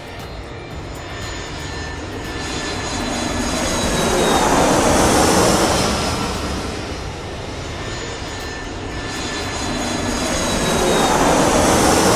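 Airplane engine passing by twice. It swells to a peak about five seconds in, fades a little, then swells again near the end, with a high whine that slides slowly down in pitch as it passes.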